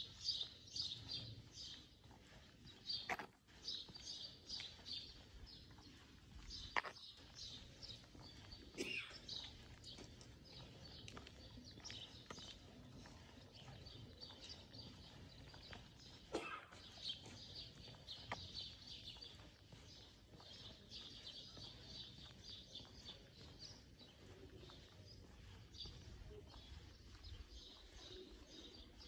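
Small birds chirping steadily and quickly, heard faintly against quiet street background, with a few sharp clicks now and then.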